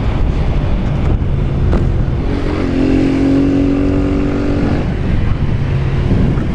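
Honda CG 160's single-cylinder engine running under way, heard from the bike with wind rushing on the microphone. It holds a steady speed for a couple of seconds in the middle.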